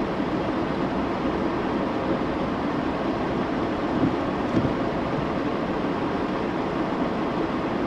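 Steady road and engine noise heard inside the cabin of a 2012 GMC Terrain SUV driving slowly on snowy roads, with one light bump about four and a half seconds in.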